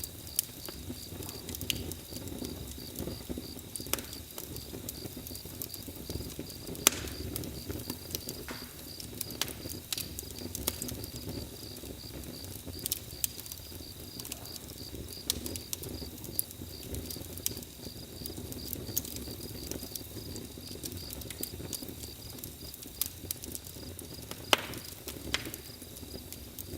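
Campfire crackling, with sharp pops scattered irregularly through it, over a steady, evenly pulsing cricket trill.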